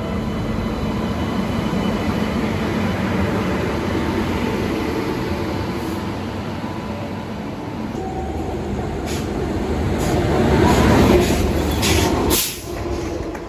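A passenger train running along the track beside a station platform, a steady rumble that builds to its loudest about eleven seconds in, with a few sharp metallic clanks near the end.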